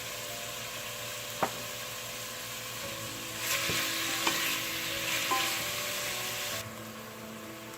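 Cubed chicken breast and onion sizzling in olive oil in a pan, with a utensil stirring and a few clicks against the pan. The sizzle grows louder about three and a half seconds in and drops back shortly before the end.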